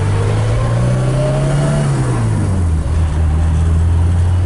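1975 BMW 2002's four-cylinder engine heard from inside the cabin, rising in pitch as the car pulls away and accelerates, falling back about halfway through, then running steadily.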